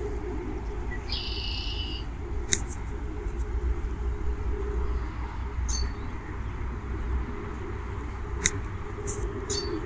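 Outdoor ambience with a steady low rumble. About a second in, a bird gives a held call lasting about a second, followed by a few short, sharp chirps later on.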